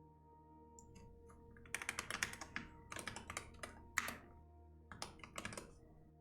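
Computer keyboard typing in three quick flurries of keystrokes, with one sharper key strike in the middle, over soft steady background music.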